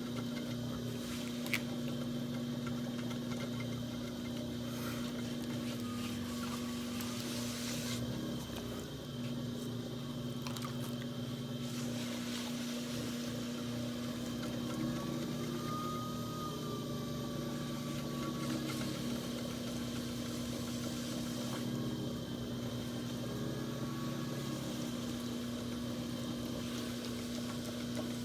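Electric potter's wheel motor running with a steady hum while clay is thrown on it.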